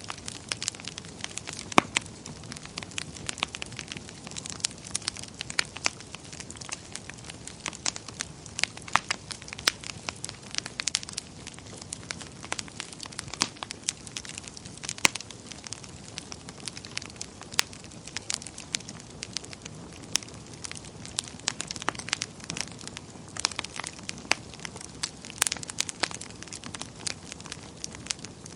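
Wood fire burning in a fireplace, crackling and popping irregularly over a soft steady hiss of flames.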